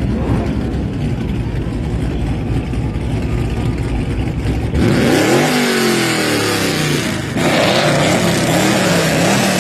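Car engine rumbling low, then, after an abrupt change about five seconds in, revved repeatedly, its pitch rising and falling with each blip of the throttle.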